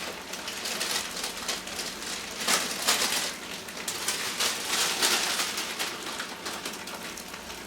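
Stir-fry vegetables sizzling and crackling in hot oil in a pan, with louder stretches about two and a half and five seconds in.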